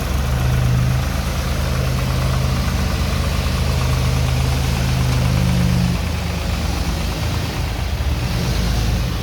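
Vehicle engine running steadily under load while a stuck four-wheel-drive truck is pulled out of the mud; the engine note changes about six seconds in.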